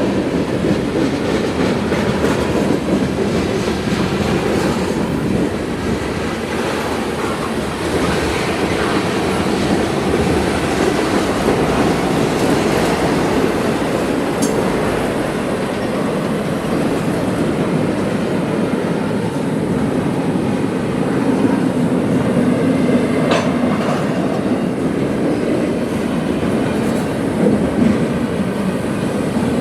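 Freight train cars rolling past on the rails: a steady rumble of wheels on track, with a few sharp wheel clicks along the way.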